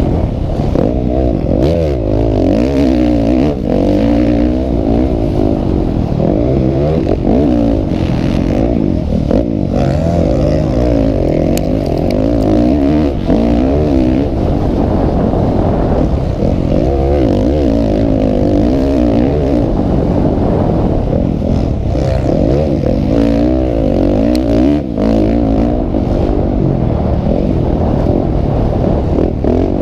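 Motocross bikes racing, several engines revving up and down one over another without a break.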